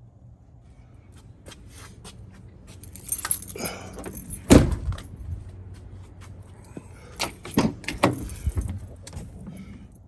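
Clatter of clicks and knocks over a steady low hum, the loudest knock about four and a half seconds in and another cluster near the eight-second mark.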